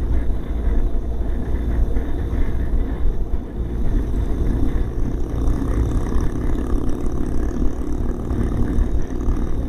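BMW R 1200 GS flat-twin boxer engine running steadily while the motorcycle cruises at highway speed, with a constant low rumble of wind and road.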